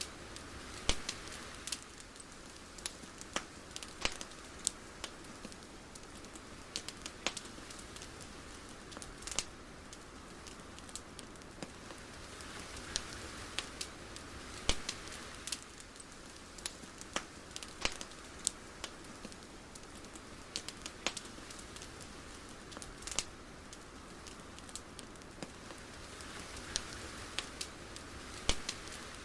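Irregular sharp crackles and ticks over a low, steady hiss, with a soft swell in the hiss about every thirteen seconds.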